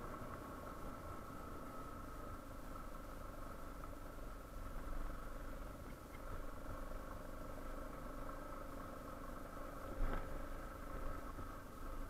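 Yamaha Serow 250's single-cylinder four-stroke engine running steadily over a low rumble, with one short knock about ten seconds in.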